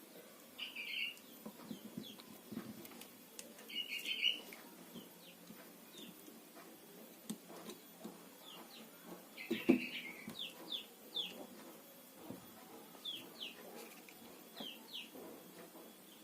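Small birds chirping in scattered short bursts of quick high notes, some falling in pitch, with faint low taps and a soft knock about ten seconds in.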